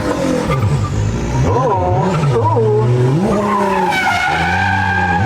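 Drift car engine revving up and down several times in quick swings as the car slides, with its tires skidding.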